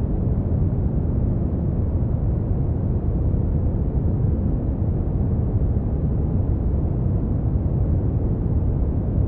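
Steady synthetic brown noise: an even, deep rushing hiss with most of its weight in the low end and little above a few kilohertz, unchanging throughout.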